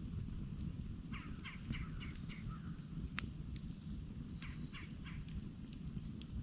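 Campfire burning with a steady low rumble and scattered sharp crackles, one loud pop about three seconds in. A bird calls in a quick run of about six notes about a second in, then four more near the middle.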